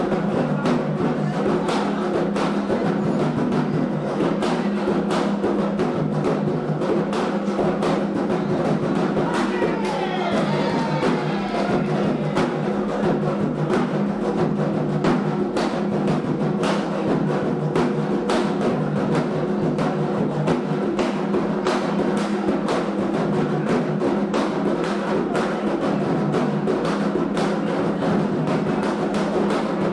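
Candomblé ritual music for Xangô: atabaque hand drums beating a steady, driving rhythm under sustained pitched sound, likely the ceremony's chant.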